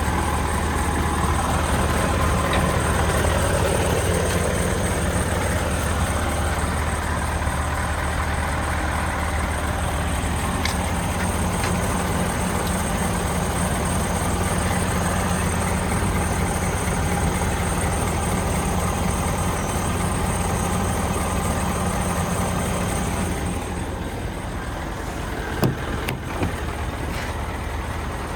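Scania G 410 truck's diesel engine idling steadily, with two short clicks near the end.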